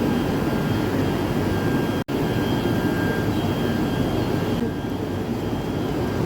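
KTM train running: a steady low rumble with a thin, steady high whine laid over it. The sound cuts out for an instant about two seconds in, and the whine fades out near the end.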